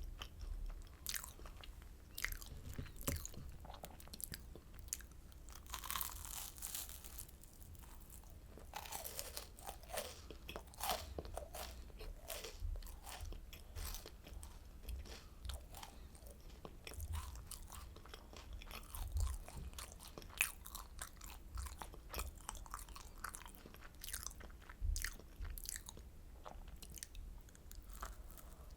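A person crunching and chewing oranda, a crisp Korean puffed-grain candy, with many sharp, irregular crunches.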